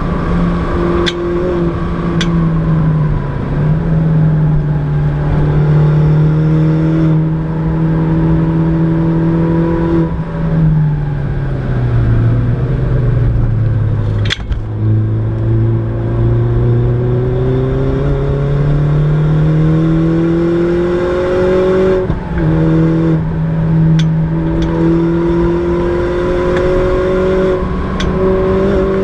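Mini John Cooper Works R56's turbocharged four-cylinder engine and exhaust heard from inside the cabin, pulling hard at speed. The engine note rises in steps with brief breaks at the gear changes, falls away for a few seconds as the car slows, then climbs again. A few sharp clicks come through over it.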